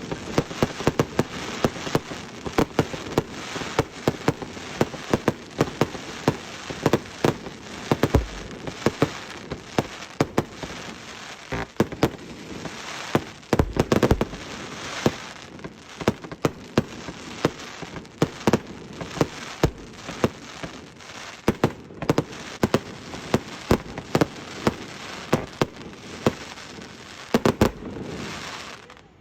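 Fireworks going off in a dense, continuous run of sharp crackling pops and bangs, several a second, with a few louder, deeper booms.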